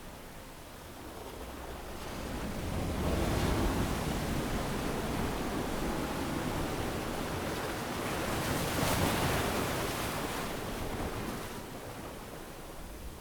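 Ocean surf on a beach: a wave swells and breaks about three seconds in, washes up with a rising hiss that peaks near the middle, then ebbs away near the end.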